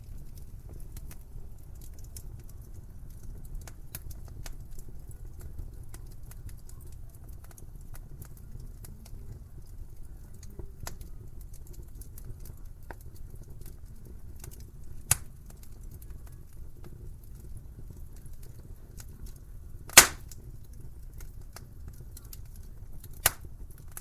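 Wood fire crackling in a fireplace: a low steady noise of the flames under scattered small crackles, with three sharper pops, the loudest about twenty seconds in.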